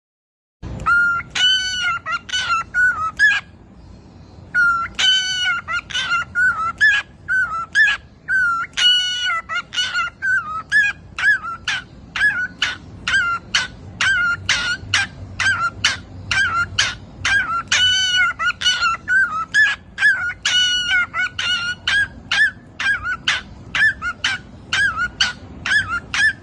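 A budgerigar squawking over and over, about three short harsh calls a second with a longer drawn-out squawk now and then, its protest at being held for a wing trim.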